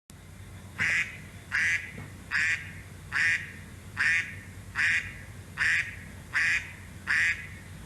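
A duck quacking nine times in an even rhythm, about one quack every 0.8 seconds.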